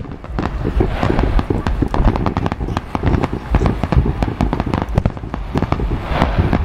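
Aerial fireworks display going off in quick succession: many sharp bangs and crackles close together over a steady low rumble.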